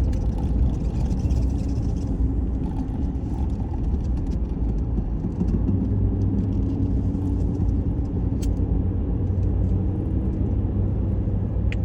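Car driving at road speed, heard from inside the cabin: a steady low rumble of engine and tyre noise with a faint hum, and a brief click or two.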